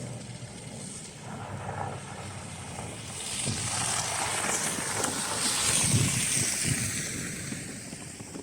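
A vehicle passing on the snow-covered street: the hiss of its tyres on slush swells about three seconds in, peaks, and dies away, with wind on the microphone underneath.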